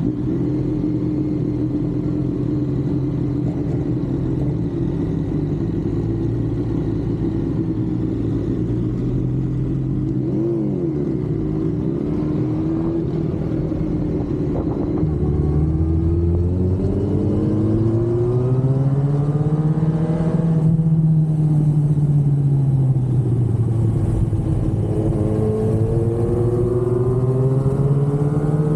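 Motorcycle engine running steadily, then rising in pitch as it speeds up about halfway through, easing back down, and rising again near the end.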